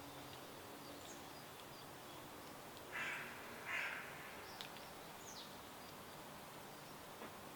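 Faint birdsong: scattered short, high chirps over a steady stream-like hiss. About three seconds in come two louder, harsh bird calls a little under a second apart.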